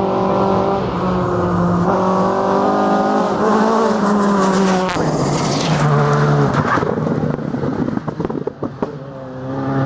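Rally car engine at full throttle on a gravel stage, its pitch climbing and then dropping sharply as it shifts through the gears. After about six seconds the engine fades away with a string of sharp cracks, and an engine builds again at the very end.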